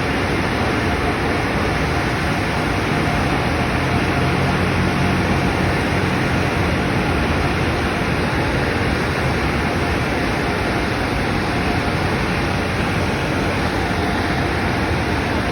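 LaserWash M5 touch-free car wash running: a steady, unbroken rush of high-pressure water spray over a faint motor hum.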